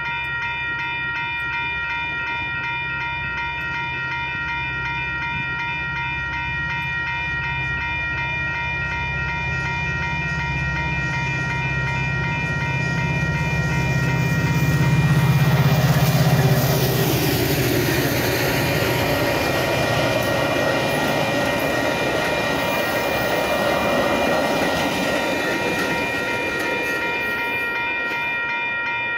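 Railroad crossing bell ringing steadily as a Metra commuter train approaches and passes. The train grows louder to a peak about halfway through, then the cars go by with steady wheel-on-rail noise that eases off near the end.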